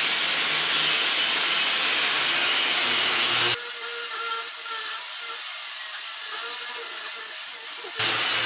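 Bosch GWS 880 angle grinder with a 1 mm steel cutting disc running steadily as it cuts into concrete, a loud continuous grinding hiss. For a few seconds in the middle the sound turns abruptly thinner and hissier, losing its low end, then returns to the fuller tone.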